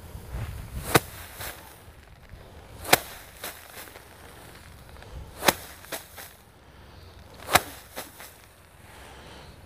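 Bundles of cut rice being beaten by hand to thresh out the grain. There are four sharp whacks about two seconds apart, each followed by a lighter knock about half a second later.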